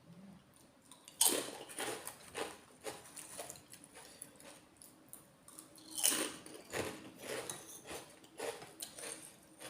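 Close-miked eating: a sharp bite about a second in and another near six seconds, each followed by a run of rhythmic chewing.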